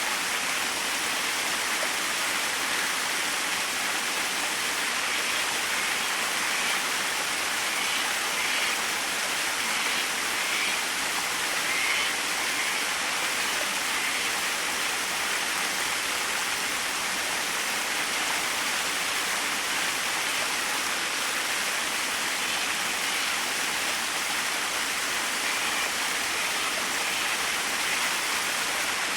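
Small waterfall splashing steadily: an even, unbroken rush of falling water with a bright hiss.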